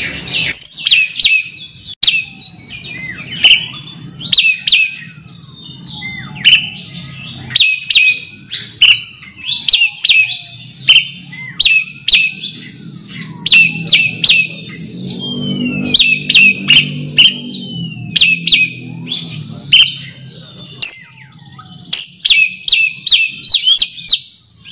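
Oriental magpie-robin (kacer) singing its rival-challenging call: bursts of short, sharp, rapidly repeated whistled notes and quick pitch glides, over a low hum that swells in the middle.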